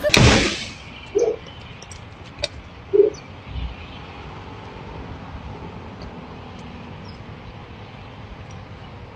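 A bird cooing twice, two short low coos about two seconds apart, over a steady faint hiss. A brief loud noisy burst comes at the very start.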